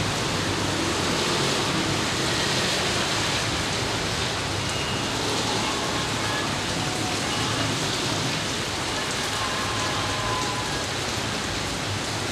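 Steady rain falling, an even hiss of raindrops on surfaces with no thunder.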